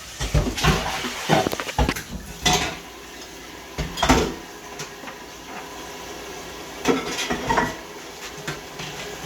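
Dishes and utensils being handled: a string of irregular clinks and knocks of cups, glasses or jars being set down and moved about.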